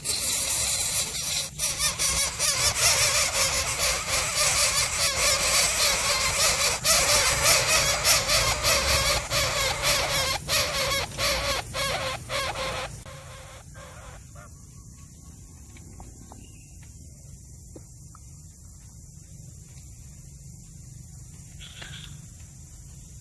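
Coucal chick giving loud, harsh squealing begging calls with rapid clicks, which stop abruptly about thirteen seconds in.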